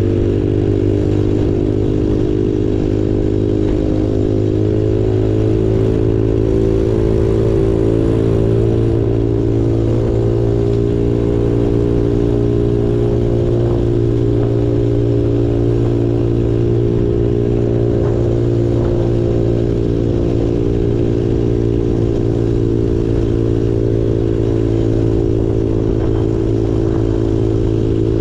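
Small off-road engine of an ATV or pit bike running at a steady, nearly constant speed while being ridden, with occasional light clicks and rattles.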